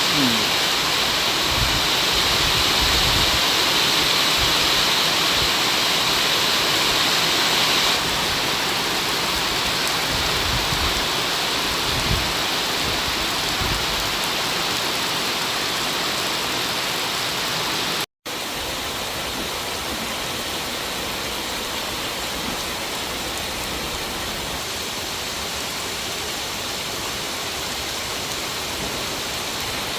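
Heavy rain pouring down as a steady, even hiss. It breaks off briefly about eighteen seconds in and carries on a little quieter.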